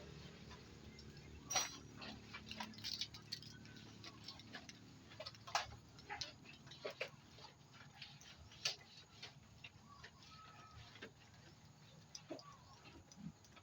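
Scattered light clicks and knocks at an irregular pace, the loudest about a second and a half, five and a half, and nine seconds in, over a faint low hum.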